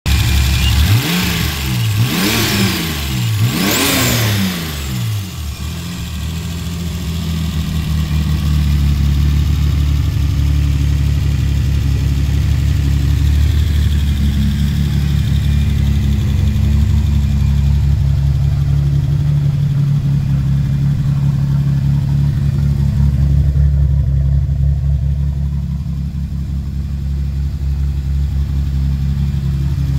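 Turbocharged stroker straight-six engine of a 1972 Datsun 240Z revved three times in quick blips, then settling into a steady idle.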